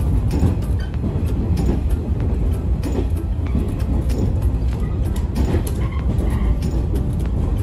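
Train running noise heard from inside a passenger car: a steady low rumble with irregular clicks of the wheels over the track.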